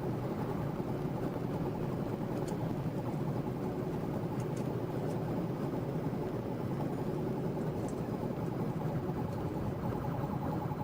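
Steady vehicle running noise, a low even rumble of engine and road, with a few faint ticks.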